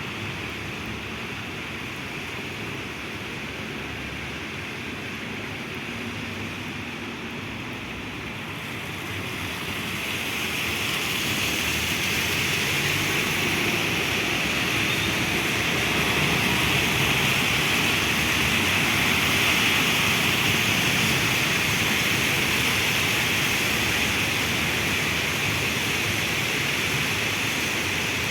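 Heavy rain falling in a steady hiss, growing louder and brighter about ten seconds in and staying that way.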